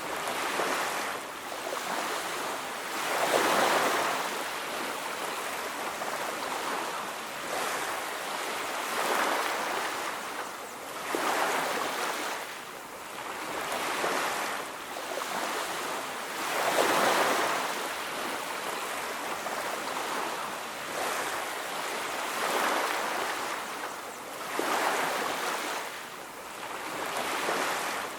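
Sea waves washing onto a beach: a steady surf noise that swells and falls back every few seconds as each wave breaks and recedes.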